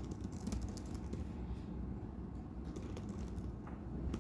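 Scattered keyboard clicks from laptop typing over a low, steady room hum, thickest in the first second and again near the end.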